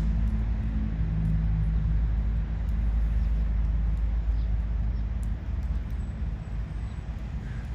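Low, steady engine-like rumble, as of a nearby motor vehicle, easing off about five seconds in; a few faint clicks sit over it.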